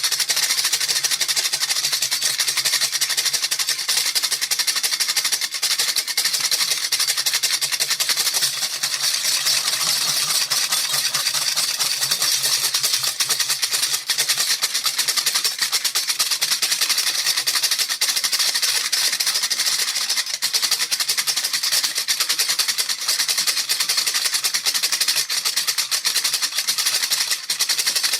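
Baby rattle shaken quickly and continuously: a dense, even rattling with no breaks.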